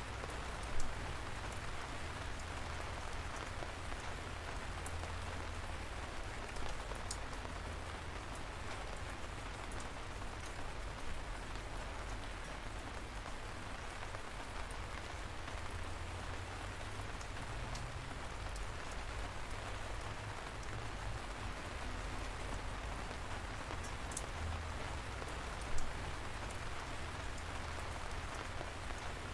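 Light rain falling steadily, a gentle drizzle, with scattered drops ticking. Two drops land louder, about a second in and near the end.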